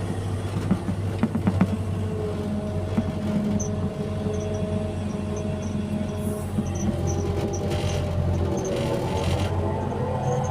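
Excavator's diesel engine running steadily under working load while it shifts soil, with a few sharp knocks about a second in.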